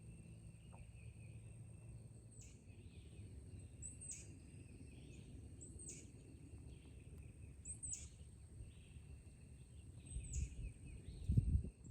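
Wild birds calling outdoors: short sharp calls that drop steeply in pitch, repeated about every two seconds over a steady high-pitched hum. A low rumble on the microphone comes near the end.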